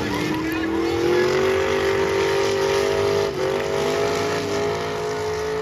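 Demolition derby car engines revving hard, the main engine's pitch climbing over the first couple of seconds, dipping briefly about three seconds in, then holding high.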